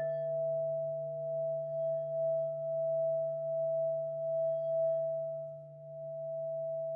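Crystal singing bowls ringing together in several sustained pure tones, the sound swelling and fading in slow pulses. Another bowl is struck right at the end.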